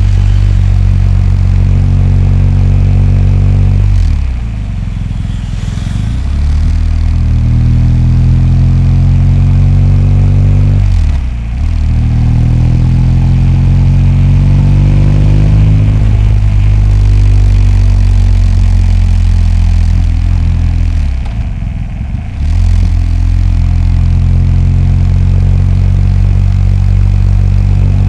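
BMW R 1250 GS flat-twin engine running under way. Its note drops sharply with a dip in loudness three times, about 4, 11 and 21 seconds in, then climbs again as the bike pulls away.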